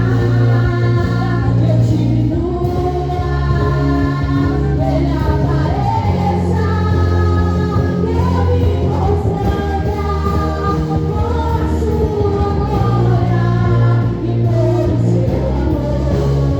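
Live gospel worship music: voices singing a praise song together over sustained bass and keyboard chords.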